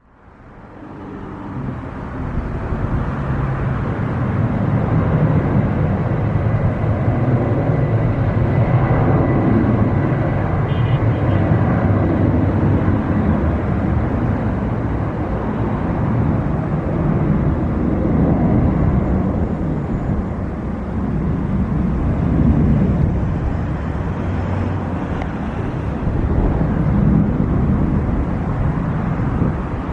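Jet airliner engines, a loud steady rumble that builds up over the first few seconds and holds, with a faint steady whine on top.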